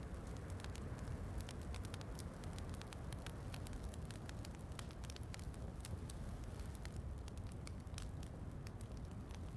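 Wood fire crackling in a fireplace, with many small sharp pops scattered irregularly over a steady low rumble.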